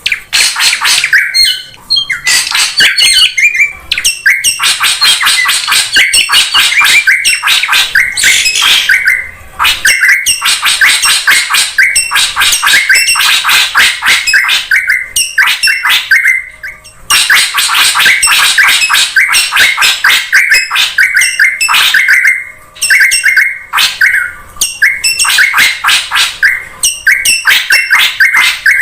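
Drongo lure call: a rapid, unbroken stream of loud, high-pitched chattering notes, pausing briefly three times.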